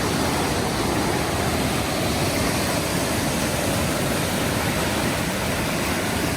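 Steady rushing of a river waterfall and its whitewater rapids, an even noise spread from deep to high pitches.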